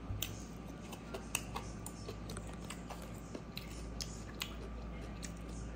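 Close-miked chewing of a mouthful of rice and spinach: irregular wet clicks and lip smacks, a few each second.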